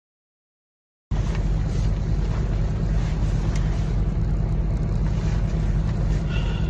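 Dead silence for about a second, then the steady low drone of a semi truck running, even and unbroken.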